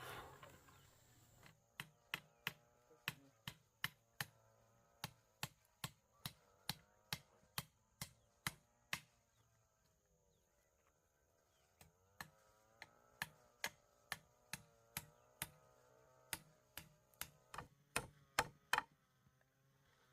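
Chopping wood with a blade: sharp, even strikes about two a second, in two runs with a pause of a few seconds between.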